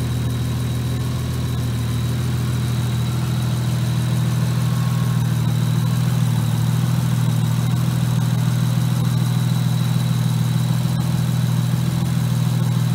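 Nissan Skyline GTS25t Type M's RB25DET turbocharged 2.5-litre inline-six idling steadily, with a faint steady high-pitched whine over it.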